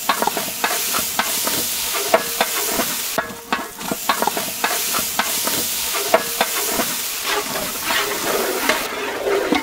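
A large batch of onions, chilli paste, green chillies, herbs and tomatoes frying in oil and ghee in a big biryani pot, sizzling steadily while a ladle stirs them, with frequent scrapes and knocks against the pot.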